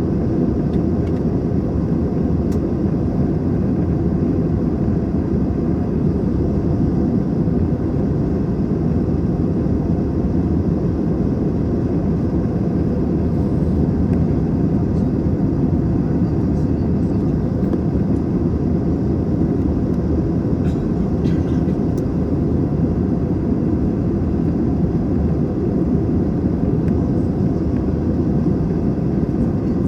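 Steady cabin noise inside an Airbus A321 airliner in flight: a constant low roar of the engines and the air rushing past the fuselage.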